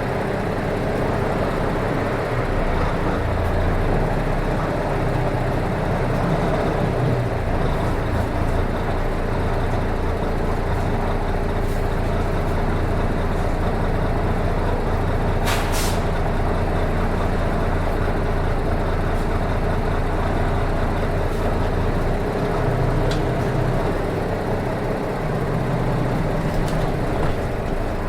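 Nissan Diesel RM252 bus under way, its diesel engine running steadily with the pitch shifting a few times as it changes speed, heard from inside the cabin. A brief sharp sound, such as an air release, comes about halfway through.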